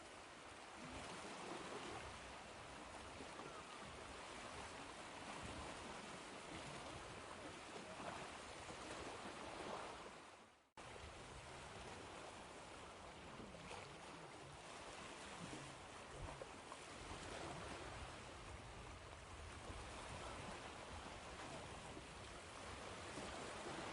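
Ocean waves washing in, a steady hiss of surf that swells and eases. About ten seconds in the sound fades away and then cuts straight back in, as where a recording loop joins.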